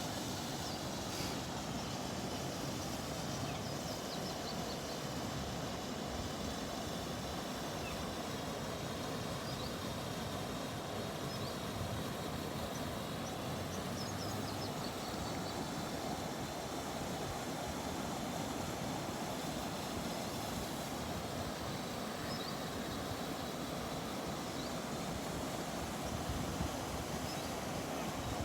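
Steady outdoor park ambience: an even background rush with faint, brief high chirps scattered through it.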